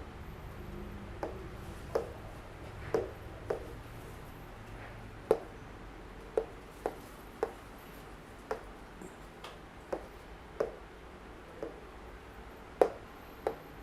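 A series of short, sharp clicks or taps, irregularly spaced at roughly one a second, over a faint low hum.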